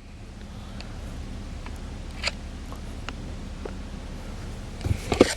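2012 Chevy Impala's 3.6-litre V6 idling steadily as a low hum, with a few light clicks and a short cluster of knocks near the end.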